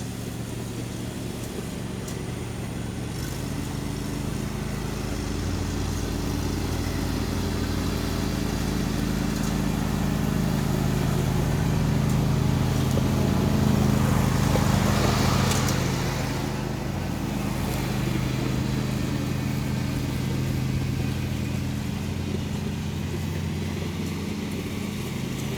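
John Deere D130 lawn tractor engine running steadily, getting a little louder a few seconds in and loudest around the middle, with a brief rushing swell a little past halfway.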